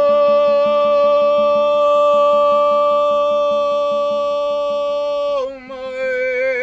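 A singing voice holds one long chanted note at a steady pitch, then wavers and bends near the end, over a fast, even percussive pulse.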